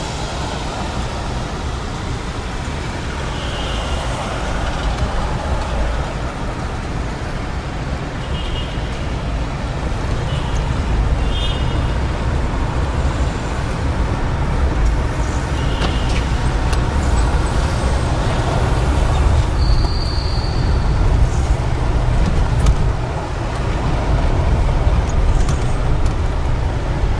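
Steady low vehicle rumble heard from inside, slowly building in level, with a few short faint high chirps over it.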